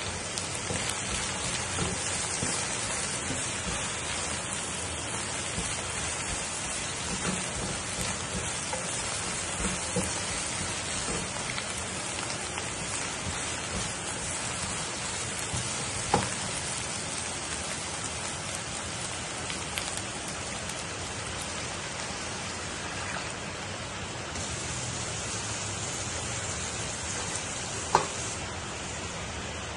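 Steady frying sizzle of minced aromatics and lemongrass stalks in a wok, stirred with a slotted spatula. Two sharp knocks, one about halfway through and one near the end.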